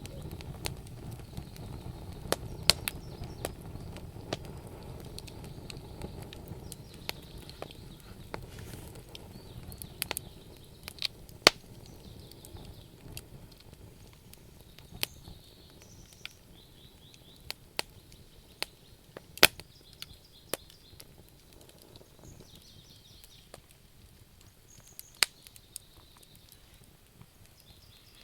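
Wood campfire burning, crackling with sharp, irregular pops and snaps over a low rumble of flames that dies down during the first dozen seconds.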